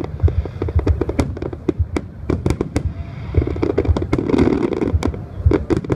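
Fireworks display: a rapid run of aerial shell bursts and crackle, several sharp bangs a second, with a denser stretch of noise about halfway through.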